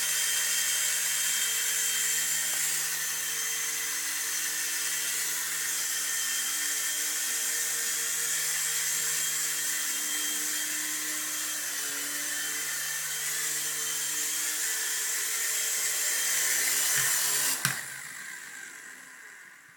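Micro remote-control helicopter's electric motor and rotor whining steadily at a high pitch. Near the end a single sharp knock, after which the whine dies away over about two seconds.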